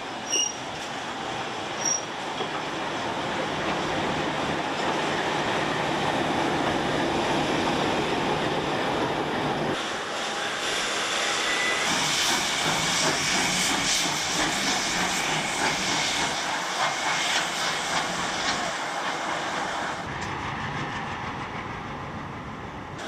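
A train moving on the rails: steady wheel and track noise, with brief high squeals in the first two seconds. The sound changes abruptly about ten seconds in.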